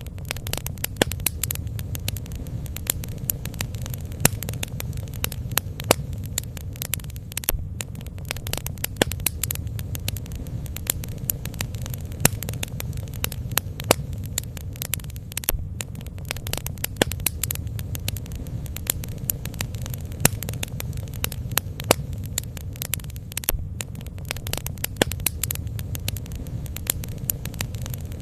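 Bonfire burning and crackling: frequent irregular sharp pops and snaps over a steady low rumble.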